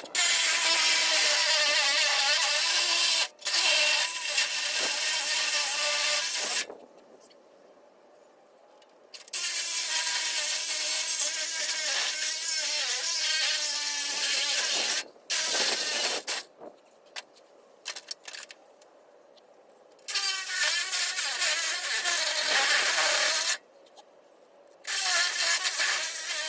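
Power saw cutting through scrap metal in about five bursts, stopping and starting between cuts, its motor whine wavering in pitch as it bogs under load.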